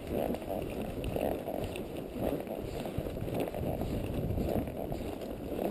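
Horse walking along a trail, heard through a chest-mounted camera microphone: a steady low rumbling rustle that swells about twice a second with the horse's steps.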